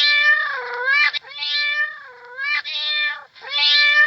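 A domestic cat meowing over and over, about four long meows in quick succession, each one dipping in pitch and then rising at the end.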